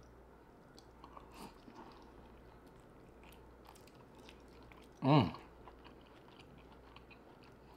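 Close-miked chewing of buttery lobster tail meat: soft, faint mouth clicks and wet chewing noises. About five seconds in comes one short, loud hummed "mm" that falls in pitch.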